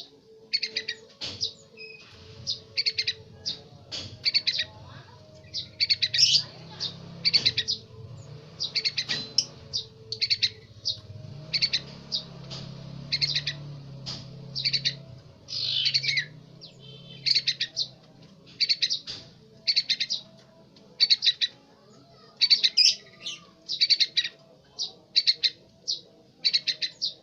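Young sooty-headed bulbul chick calling over and over in short, high chirping phrases, about one or two a second, as it practises its song.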